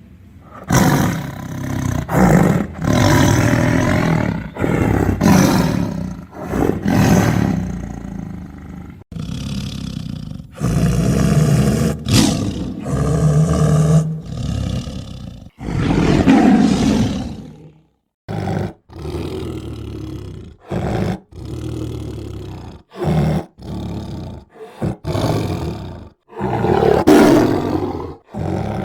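Tiger roaring and growling over and over: several long, loud roars in the first half, then a quick run of short roars and snarls that start and stop abruptly.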